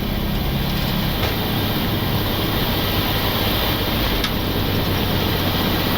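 Boeing 737-800 at takeoff thrust, heard from the flight deck during rotation and lift-off: a steady rush of engine and airflow noise, with a low hum that fades out about a second in.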